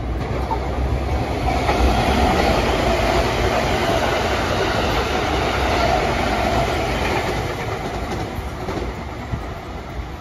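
Train running on the rails, a steady rumble of wheels and track that grows louder about two seconds in and eases off toward the end.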